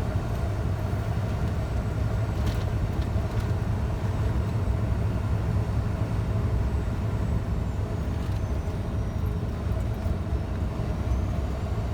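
Scania truck's diesel engine running steadily at road speed, with a low drone and road noise, and one faint click about two and a half seconds in.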